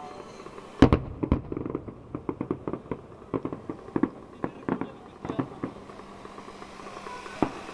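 Fireworks going off: a loud bang a little under a second in, then a steady run of sharp pops and crackles.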